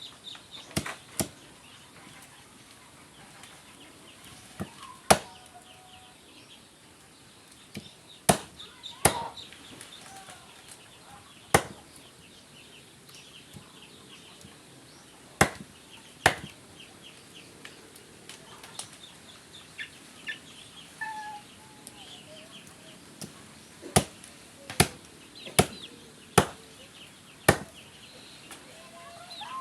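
Duck meat being chopped with a blade: about fourteen sharp, loud chops, often two in quick succession, with pauses of several seconds between them. Chickens cluck and high chirps run faintly underneath.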